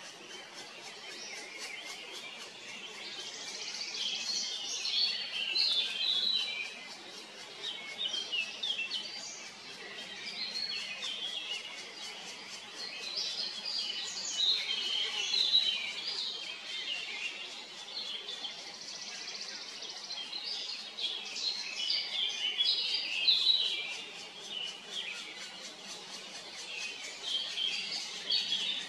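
Songbirds chirping, rapid high notes in bouts a few seconds long with short lulls between.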